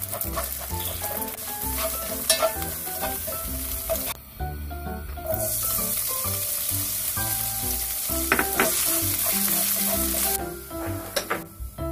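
Beaten eggs sizzling in a hot oiled pan while stirred with a wooden spatula. After a short break about four seconds in, diced ham sizzles and fries in oil as it is stirred, until the sizzle stops near the end.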